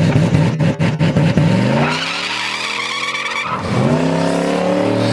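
Turbocharged 4.6-litre two-valve V8 Thunderbird accelerating hard, with a rapid crackle over the engine in the first second or two. The engine's pitch climbs, drops sharply at a gear change about three and a half seconds in, then climbs again.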